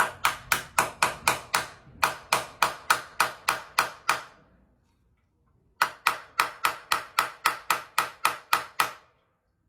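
Hammer tapping a screw extractor into a hole drilled in a snapped motorcycle frame-to-engine bolt. The strikes are quick and sharp, about four a second, in two runs with a pause of about a second and a half between them.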